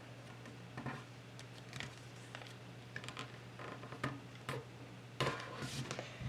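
A sheet of paper being folded and creased by hand: scattered soft crinkles and taps, with a longer rustle about five seconds in. A steady low hum lies underneath.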